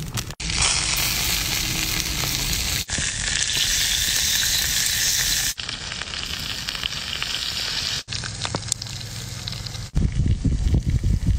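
Hairtail fish sizzling in hot oil on a fire-heated stone slab. The hiss is loudest in the first few seconds, softens after about five and a half seconds, and drops out briefly at several cuts. About ten seconds in, a low rumble takes over.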